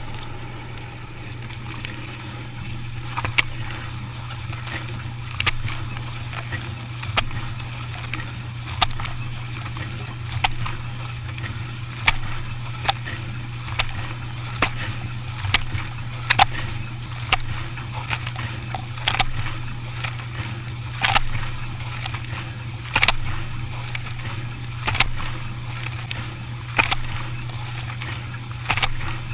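Dishwasher machine running with a steady low hum, with sharp clicks or knocks repeating roughly once a second from about three seconds in.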